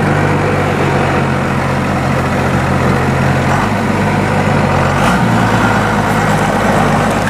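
Ramp truck's engine running as the loaded truck moves off, a steady low hum whose pitch shifts about three and a half seconds in and again about five seconds in.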